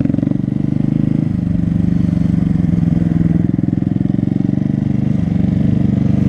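A Honda Grom's small single-cylinder engine running at low road speed, with a fast, even exhaust pulse. Its note steps slightly with the throttle about a second in and again near the end.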